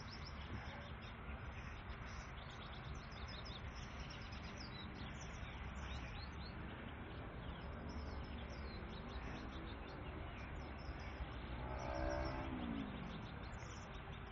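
Small birds chirping in quick repeated calls over steady outdoor background noise. A brief pitched whine falls in pitch about twelve seconds in.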